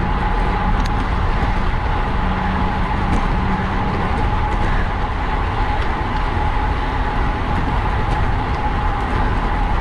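Wind rushing over the microphone of a camera on a racing bicycle, a steady loud rush with a heavy low rumble, mixed with tyre and road noise.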